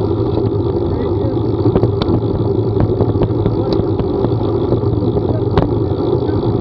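Steady running noise of a vehicle on the move, with scattered sharp clicks throughout.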